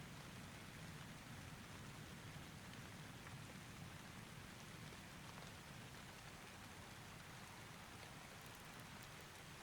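Faint, steady rain falling, with a low rumble underneath.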